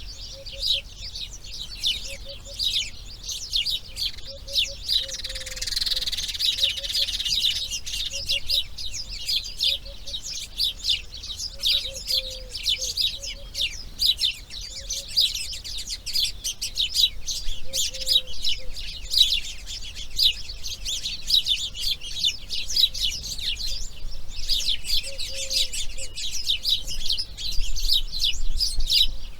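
Birds chirping in a dense, continuous chorus of rapid high notes, with a faint low call repeating every second or two underneath.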